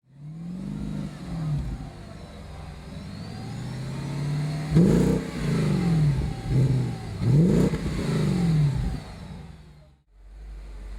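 VW Touareg's V8 engine, breathing through a Fabspeed aftermarket exhaust, blipped up from idle once, then revved several times in a quick run, each rev rising and falling back. The sound cuts off suddenly near the end, and a steadier engine note follows.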